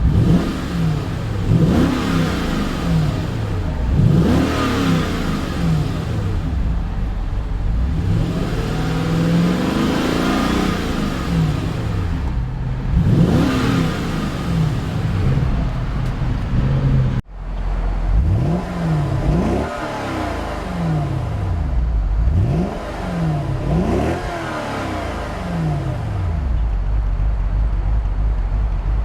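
1997 Jaguar XK8's 4.0-litre V8 being revved again and again from idle, each rev climbing and falling back, about one every two seconds. The sound drops out for an instant about two thirds of the way through, then the revving carries on.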